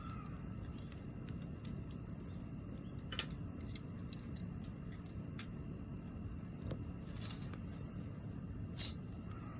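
Wood bonfire burning: a steady low rush with scattered sharp crackles and pops, the loudest pop near the end.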